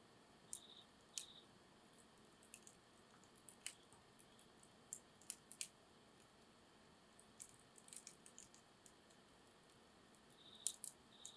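Wood campfire crackling, with irregular sharp pops and snaps over a soft hiss. A few short, faint, high chirps come near the start and again near the end.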